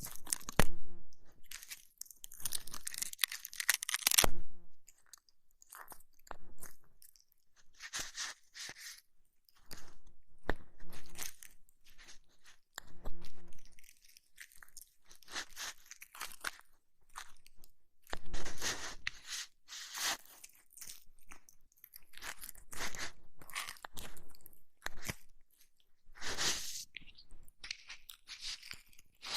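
Close-miked ASMR ear massage and cleaning sounds: irregular bursts of crackling, rubbing noise on the microphone, mostly high-pitched, some brief and some a second or two long, with short pauses between.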